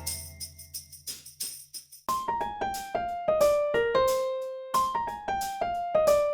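Background music: after a brief lull, a solo piano-like keyboard melody of short, evenly paced notes starts about two seconds in.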